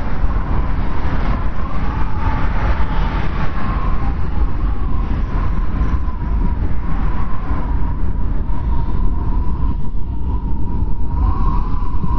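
Snowstorm wind blowing hard: a steady deep rumble with a thin, wavering whistle riding over it.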